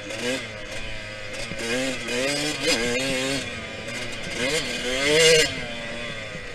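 Yamaha YZ125X 125 cc two-stroke single-cylinder dirt bike engine revving up and falling back several times under hard acceleration and shifting. It is loudest about five seconds in.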